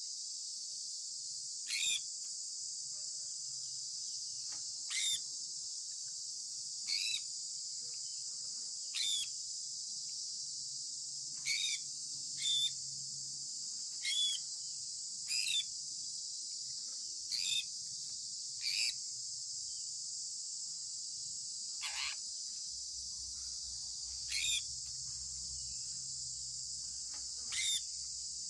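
Sun conure parrot giving short, sharp chirps that drop in pitch, one every two seconds or so, over a steady high-pitched insect-like hiss.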